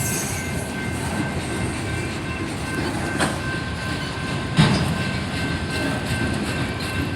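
Railroad cars rolling slowly past, a steady rumble of wheels on the rails with clacking. There are two sharper knocks, about three seconds in and again around four and a half seconds.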